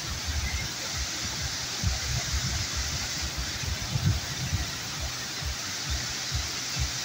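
Waterfall rushing, a steady hiss of falling water. Irregular low thumps sound underneath it throughout.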